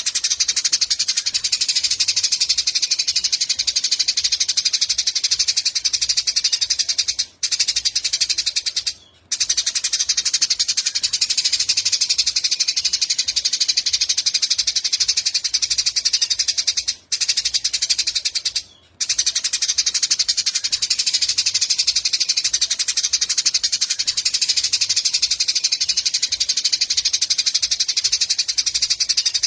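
Eurasian tree sparrows chattering, a dense run of rapid high chirps that goes on without pause except for four brief drop-outs, about 7, 9, 17 and 19 seconds in.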